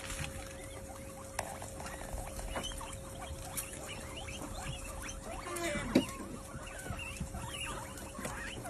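Many small animals squeaking and chirping at once in a busy chatter of short high calls, with scattered clicks and one louder squeal and knock about six seconds in. A steady faint hum sits underneath.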